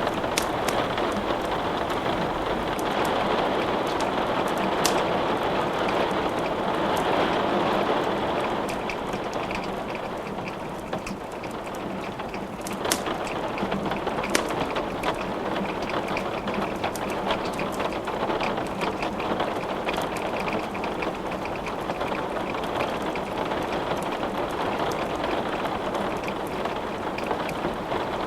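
Steady rain, with the sharp pops and crackles of a wood fire burning in a fireplace scattered throughout.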